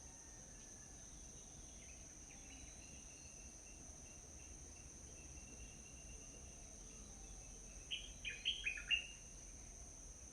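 Outdoor morning ambience with a steady high-pitched insect drone, and near the end a small bird gives a quick run of about five sharp chirps.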